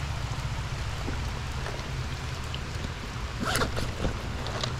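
Heavy rain falling steadily, with a deep rumble underneath. A few short sharp clicks come in near the end.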